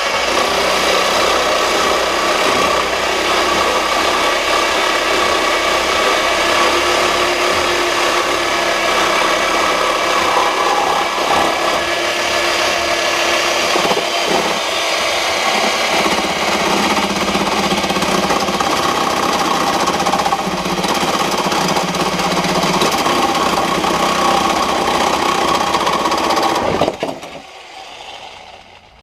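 Power tool cutting through metal under steady load, with a constant whine, for about 27 seconds before it stops near the end.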